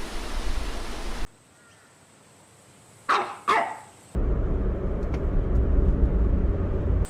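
Puppy giving two quick yipping barks about three seconds in, set between stretches of low rumbling noise that start and stop abruptly.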